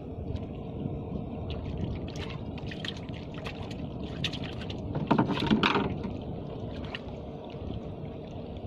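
Water splashing and dripping over a steady low rumble: scattered drips and clicks from about two seconds in, and a loud splash a little after five seconds, as a hooked fish is pulled up out of the water.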